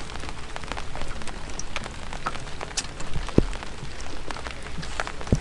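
Steady rain, with many sharp ticks of drops landing close by and a few louder knocks, one about three and a half seconds in and one near the end.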